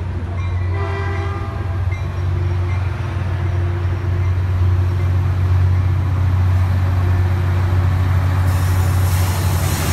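Diesel locomotive engine running with a loud steady low drone, with a short horn sound about a second in. A rushing noise of the passing train grows near the end.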